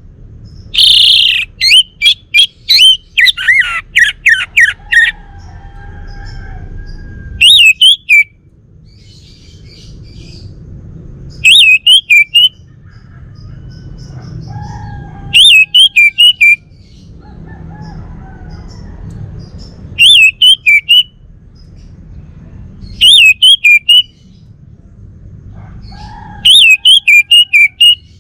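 Male orange-headed thrush singing: loud short phrases of quick, repeated whistled notes, one phrase every three to four seconds, with a longer run of notes early on.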